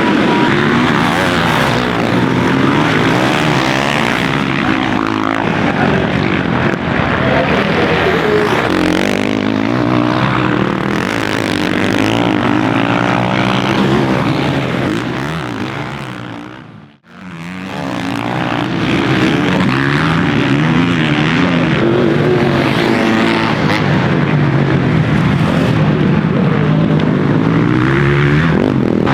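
Motocross dirt bike engine revving up and down hard as the bike races around the track. Midway through, the sound fades out almost to nothing and comes back.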